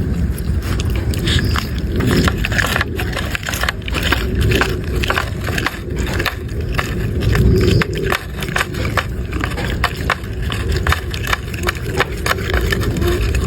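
A dog eating, with many quick crunching and clicking chews and some scraping, over a steady low rumble.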